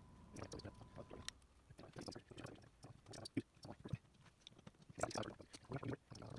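Irregular clicks and knocks of tools and metal engine parts being handled during an engine teardown, with a faint steady high tone for about the first second.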